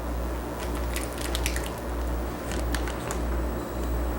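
Marinade being poured into a plastic zipper bag of raw chicken breasts: faint squishing and crinkling of the plastic with a few small clicks, over a steady low hum.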